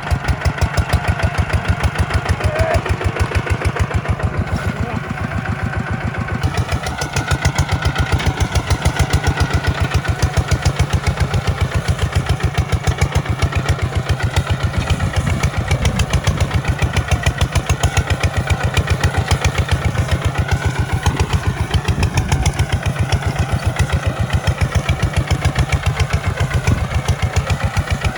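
Tractor diesel engine running steadily with an even, rapid pulse.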